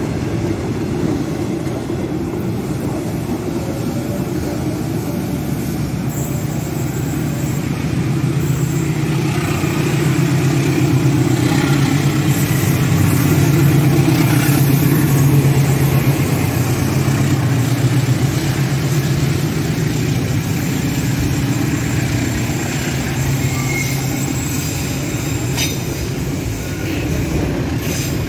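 A CC206 diesel-electric locomotive passes hauling a freight train, its engine drone swelling to loudest about halfway through and then easing off. The freight wagons then roll by with a few sharp clacks near the end.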